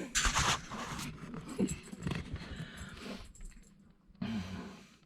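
A Blue Heeler dog making a series of short, irregular vocal sounds while begging for food.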